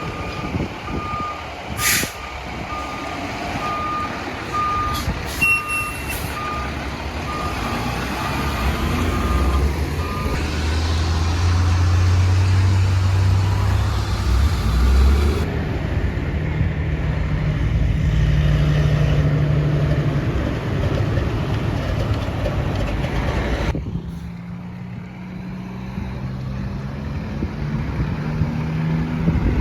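Fire truck reversing beeper sounding a steady, evenly spaced beep for about the first ten seconds over the truck's running engine, with a few sharp short sounds early on. The engine then runs louder, its pitch shifting as the truck moves, and the sound changes abruptly a little over halfway in.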